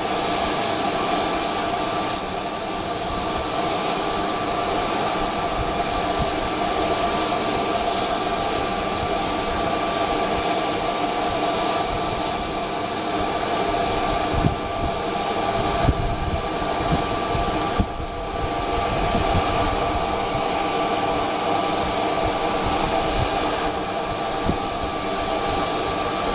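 Jet aircraft engines idling on the ramp: a steady whine over a loud high hiss. Low gusts of wind buffet the microphone around the middle.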